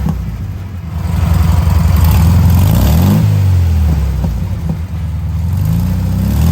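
Air-cooled flat-four engine of a 1973 VW Beetle running through a new EMPI two-tip exhaust with a deep tone, revving up in pitch and dropping back, then climbing again near the end.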